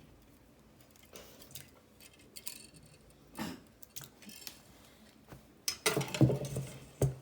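A whisk or utensil clinking and tapping against a bowl as a thin sauce mixture is mixed: sparse, irregular light clicks, busier and louder near the end.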